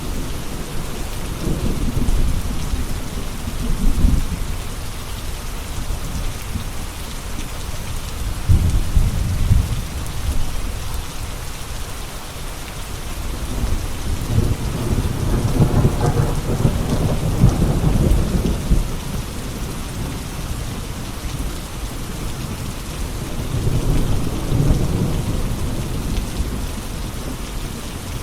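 Steady rain with thunder rolling in four low rumbles, the longest and loudest about halfway through.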